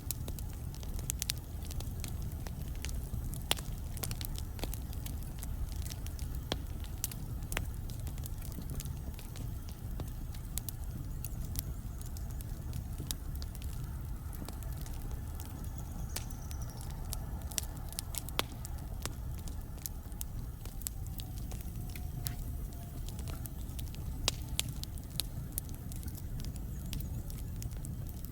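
Wood logs burning in a fireplace: frequent irregular crackles and sharp pops over a steady low rumble of the flames.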